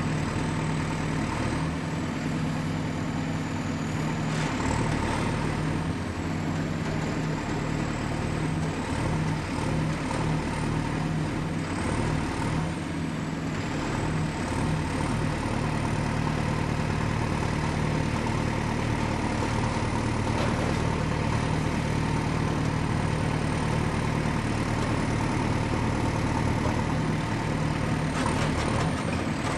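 Excavator's diesel engine running steadily, with a thin high whine above it that drifts slightly in pitch. A few faint brief clatters come and go.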